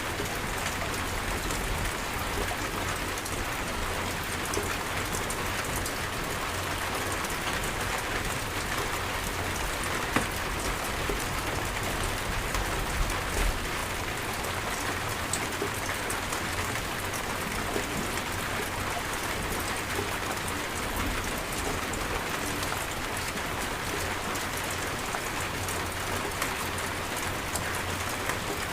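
Steady heavy rain falling, a continuous hiss with scattered individual drops ticking on surfaces and a few slightly louder drops.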